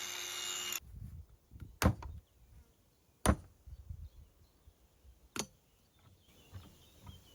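A power tool cutting at a padlock runs, then stops under a second in; three sharp knocks follow, spaced about a second and a half to two seconds apart.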